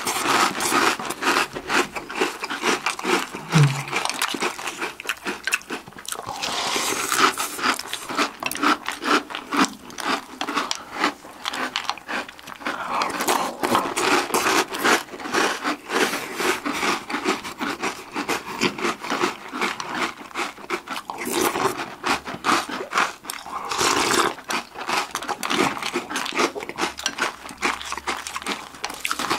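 Close-up crunching and chewing of Oreo O's chocolate cereal in milk and bites of Oreo cookies: a dense, irregular run of crisp crunches. The cereal is still crisp in the milk.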